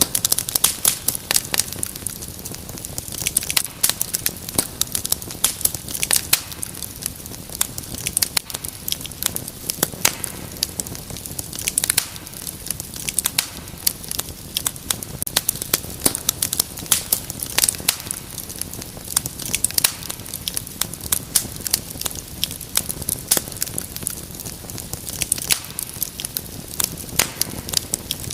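Wood fire crackling in a fireplace: a dense, irregular stream of sharp pops and snaps over a steady low hiss of burning.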